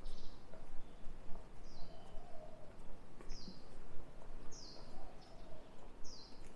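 A bird calling over and over: five short, falling chirps spaced about a second and a half apart, over a steady low background hum.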